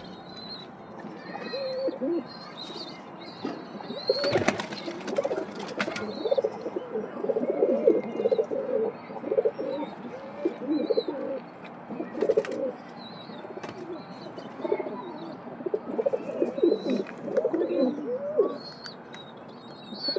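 Pigeons cooing over and over, several low calls overlapping. Thin high chirps come through now and then, and there is a brief noisy burst about four and a half seconds in.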